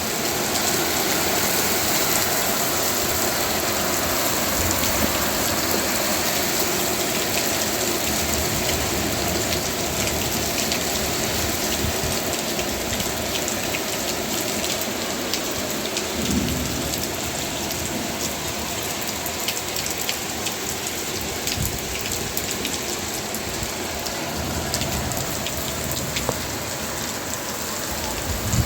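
Heavy monsoon rain pouring steadily, a dense hiss of rain falling on surfaces, with a few short low rumbles partway through.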